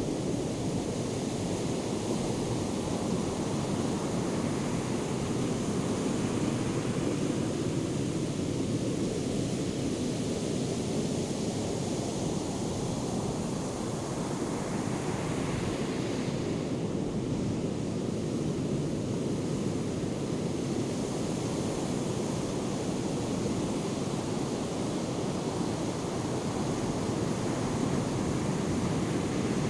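Ocean surf from Hurricane Erin's swell, a steady wash of breaking waves.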